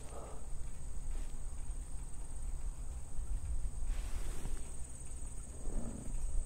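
Insects chirring steadily at a high pitch, under a low, gusty rumble.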